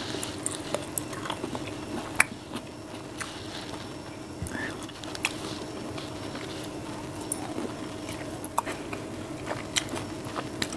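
Close-up mouth sounds of a person chewing soft, juicy rambutan flesh: scattered wet clicks and smacks, the sharpest about two seconds in.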